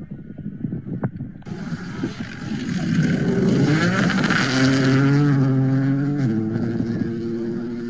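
Rally car engine coming up loud, its note rising as it accelerates, holding steady, then dropping suddenly a little after six seconds in as the car passes and fades away.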